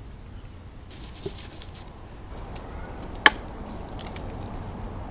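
A single sharp knock about three seconds in, with a smaller tap about a second in, over faint handling noise.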